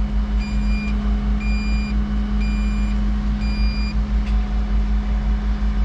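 A machine's reversing or travel alarm beeping about once a second, four times, then stopping about four seconds in, over the steady running of the excavator's diesel engine.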